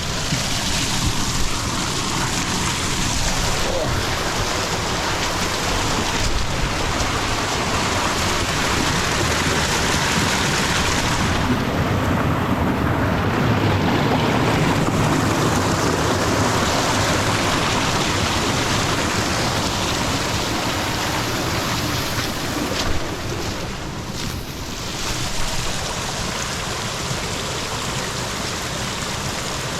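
Rainwater running down a small waterfall: a steady rushing and splashing of falling water.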